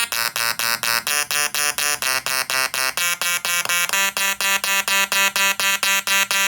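Tesla coil discharging in rapid pulses, a harsh electric buzz switched on and off about six times a second, its pitch stepping between a few notes.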